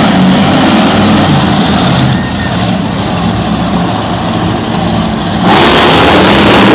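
Loud engine of a wheelie-competition truck running hard, with a sudden louder, hissier rush of noise about five and a half seconds in.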